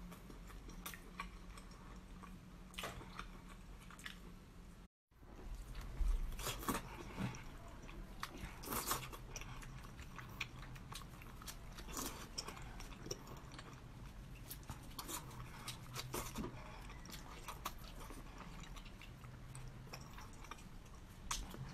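Close-up eating of braised pork: wet, irregular chewing and biting, made up of many small clicks and crackles. There is a brief total dropout about five seconds in.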